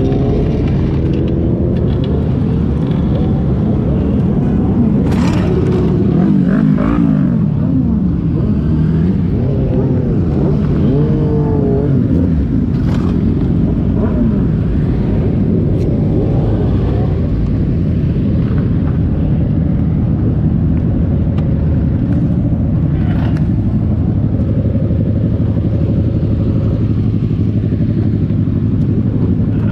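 Motorcycle engines running on the road, their pitch rising and falling with the throttle for the first dozen seconds and then holding steadier, with a few sharp knocks in between.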